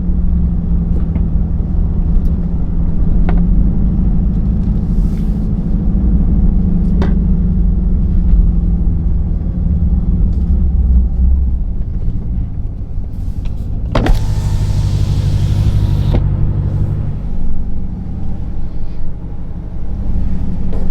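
Straight-piped 5.7-litre Hemi V8 of a 2022 Chrysler 300 S, with a steady low exhaust drone while driving at low speed. About two-thirds through, a brief hiss lasting about two seconds rises over it.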